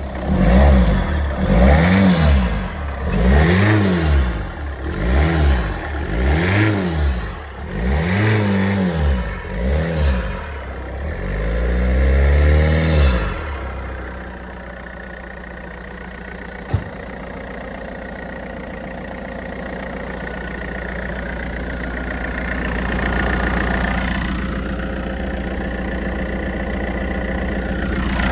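Ford Focus 2.0 TDCi diesel engine blipped repeatedly, its revs rising and falling every second or two, then dropping back to a steady idle about halfway through. There is a single sharp click a few seconds after it settles.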